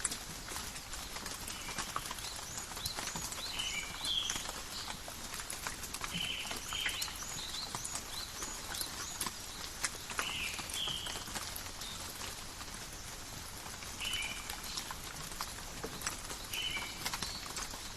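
Calm rain in a forest: a steady patter of drops with many separate sharp drips. Short high chirping calls come every few seconds.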